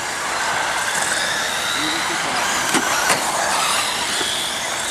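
Radio-controlled stadium trucks racing, their motors whining and drifting in pitch over a steady noisy bed. Two sharp knocks come close together about three seconds in.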